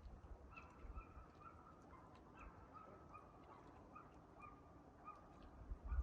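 Faint bird calls: one short, clear note repeated about twice a second. Under them, dull low thumps of footsteps on the trail, the heaviest near the end.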